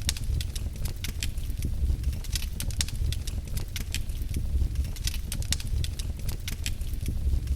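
Wood fire burning in a fireplace, crackling and popping with many irregular sharp snaps over a steady low rumble.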